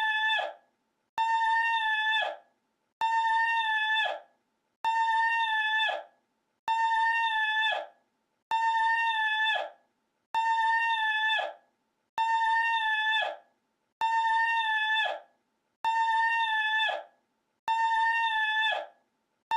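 The same short, high, steady-pitched cry repeated on a loop, about eleven times, one call roughly every two seconds. Each call holds one note for about a second and then drops and cuts off.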